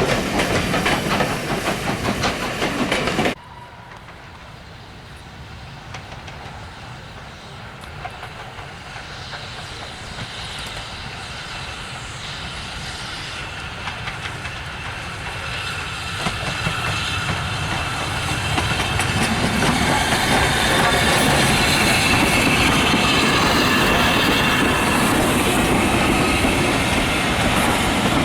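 Steam-hauled train running with the clickety-clack of wheels over rail joints, cut off abruptly about three seconds in; then a train approaching, its rumble and clatter growing steadily louder with a high ringing from wheels on rail as it nears.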